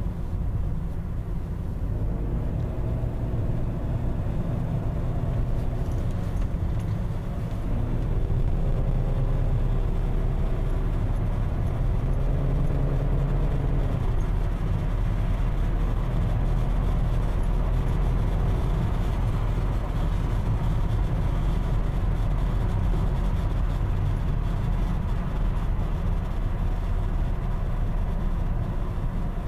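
BMW 528i (E39) automatic driving at speed: a steady low road and drivetrain rumble, with a faint whining tone that slides up and down in pitch during the first half. This is the strange "electric"-sounding noise that the owner hears above 70 km/h, its cause unknown.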